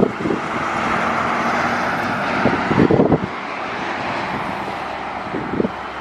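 Jet noise of a Boeing 777-300ER's two GE90 engines on approach, a steady roar that swells early on and eases off. Gusts of wind buffet the microphone with low rumbles, strongest about halfway through and again near the end.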